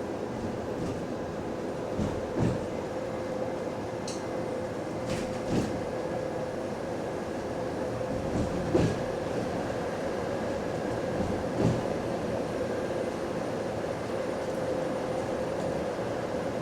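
Bus running in service, heard from inside: a steady drone of drivetrain and road noise with a constant whine, broken by about five short knocks and rattles over bumps. The loudest comes about nine seconds in.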